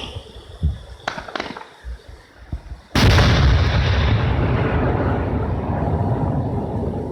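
Fireworks going off: a few sharp cracks in the first second and a half, then a loud boom about three seconds in that fades slowly as a long rumble.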